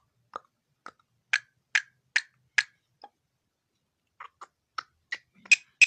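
A series of sharp clicks or taps, about two to three a second, with a pause of about a second in the middle.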